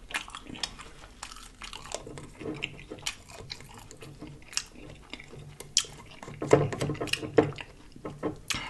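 Close-miked chewing of a bite of fried catfish: irregular wet mouth clicks and lip smacks, the loudest a little past the middle.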